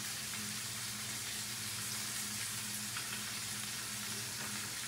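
Steady sizzling hiss of food frying in a pan, with a faint low hum beneath it.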